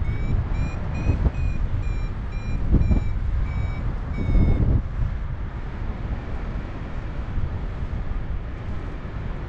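Paragliding variometer beeping in a quick run of short high beeps, about three a second, the audio signal of climbing in lift; the beeps stop about halfway through. Wind rumbles on the microphone throughout.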